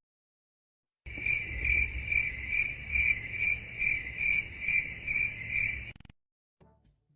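Crickets chirping, the stock 'awkward silence' sound effect: a high chirping that pulses about twice a second, starting about a second in and stopping after about five seconds.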